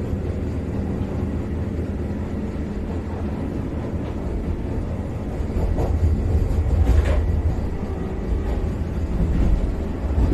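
Vande Bharat Express electric multiple-unit train running along the track, heard from inside its driver's cab as a steady low rumble. A couple of brief louder rattles come about six and seven seconds in.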